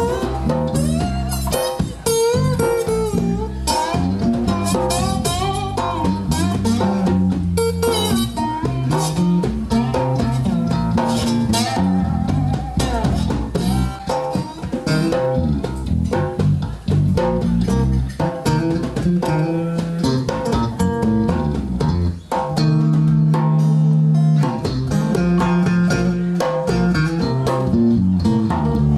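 Instrumental break in a blues song: a guitar-led band with bass and drums playing a steady groove, with no vocals.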